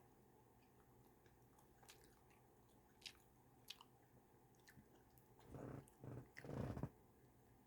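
Faint clicks, then about five and a half seconds in a short run of louder wet bites and chewing on a chicken hot-dog-style sandwich.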